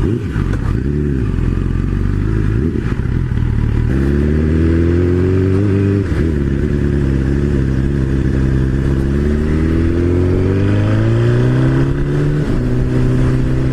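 Motorcycle engine running under way. Its pitch climbs, drops suddenly about six seconds in, then climbs slowly again toward the end.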